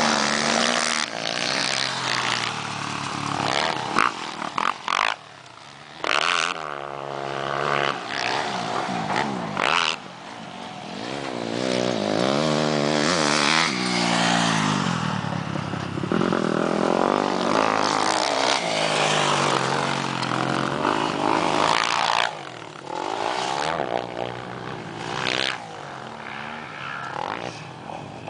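Motocross bikes' engines revving hard and easing off again and again, the pitch climbing and dropping with the throttle and gear changes as they ride the dirt track, with a few brief drops in level and sharp clicks.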